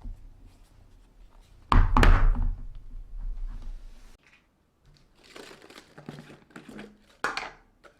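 A heavy thunk about two seconds in, then rustling and crinkling of plastic and a second sharp knock near the end, as food and containers are handled while a refrigerator is being organised.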